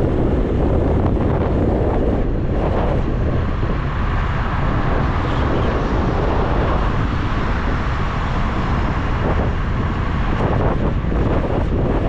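Wind rushing over the microphone while riding, a loud, steady low rumble with the faint sound of the ride underneath.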